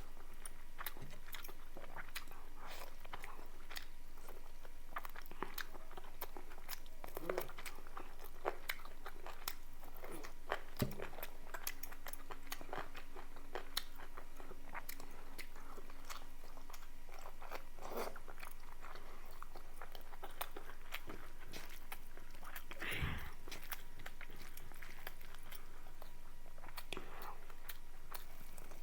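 A person chewing and biting food close to the microphone, with many short clicks scattered throughout.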